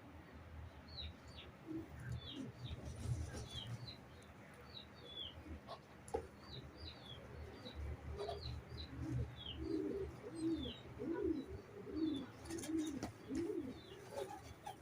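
Birds: short high chirps repeating throughout, and pigeons cooing in a run of low calls through the second half.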